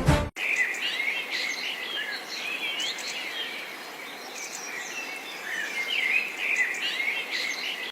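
Several birds chirping and calling with quick notes that rise and fall, busiest near the start and the end, over a steady high insect-like chirring.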